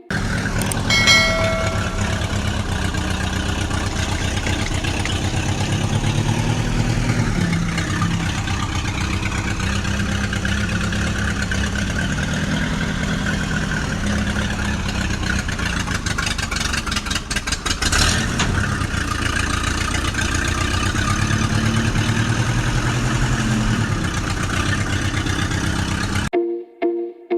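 Tractor diesel engine running with a steady low chug that rises and falls in pitch under load. There is a short high tone about a second in, and the sound cuts off suddenly near the end.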